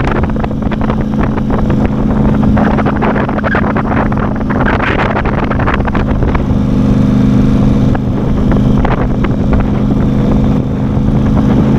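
Engine of a small riding vehicle running at a steady speed while under way, with a constant low drone. Crackling and rattling noise sits over the drone throughout.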